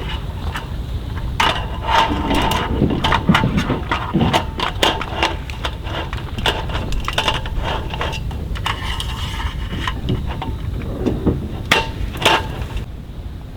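Irregular light knocks and clinks of cooking gear being handled, busiest in the first few seconds and again near the end, over a steady low rumble.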